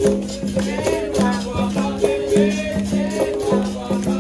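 Capoeira roda music: a berimbau twanging a repeating rhythm of held notes, with a caxixi rattle shaking and hand percussion striking, and voices singing over it.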